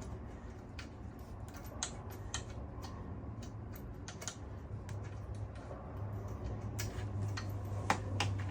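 Scattered light clicks and taps at an irregular pace, from hand tools and small parts being handled during work on a motorcycle, over a steady low hum that grows louder near the end.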